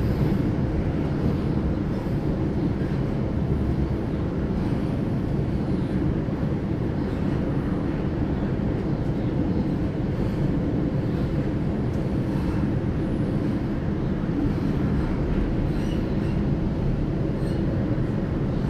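Sydney Trains Millennium (M-set) double-deck electric train running, heard from inside the carriage: a steady, mostly low-pitched rumble of the train in motion.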